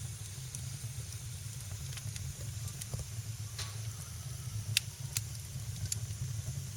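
Wood fire burning in a fireplace: scattered sharp crackles and pops over a steady low rumble of flame, the loudest pop about five seconds in.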